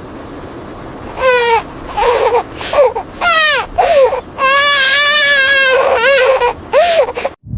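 A young child crying: a run of short high wails falling in pitch, then a longer wavering wail, breaking off abruptly near the end.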